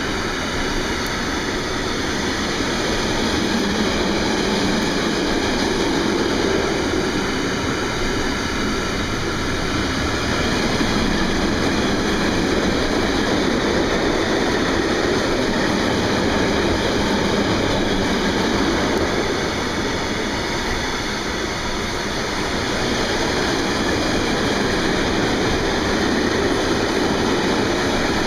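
Freight train wagons rolling past on the rails: a steady, loud rolling rumble with no breaks.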